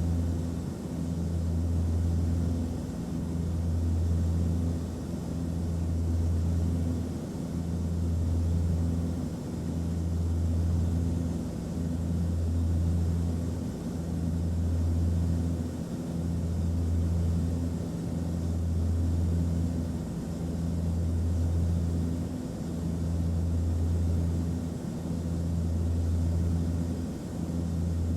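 Airliner cabin noise in flight: a steady low engine drone with a faint hiss above it, swelling and fading evenly about every two seconds.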